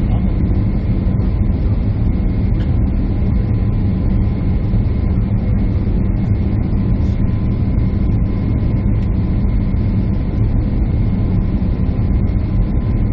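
Steady cabin noise of a jet airliner in flight, engines and airflow, with a faint steady hum running through it.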